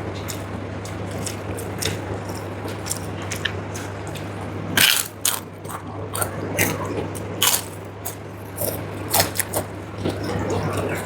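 Close-up eating sounds: rice in starch water mixed and scooped by hand on a plate, with chewing and several sharp crunches, the loudest about five seconds in. A steady low hum sits underneath.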